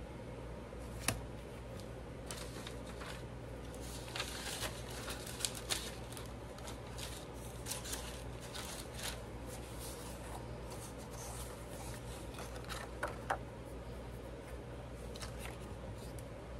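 Paper and small craft pieces handled and shuffled on a work table: scattered rustles and light clicks, with a sharper tap about a second in and two more near the end, over a steady low hum.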